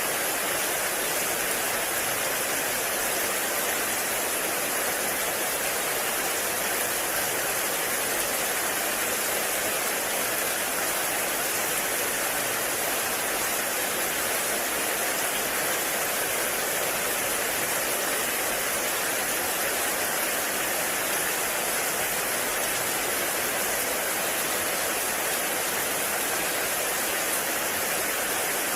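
Heavy rain falling steadily in a forest, an even, unbroken hiss with no pauses or single drops standing out.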